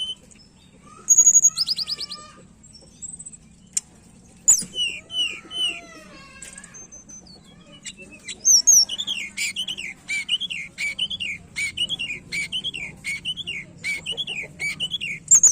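A tledekan gunung singing in full voice. It gives scattered chirps and whistles, then, about halfway in, a long run of repeated falling notes at about two a second.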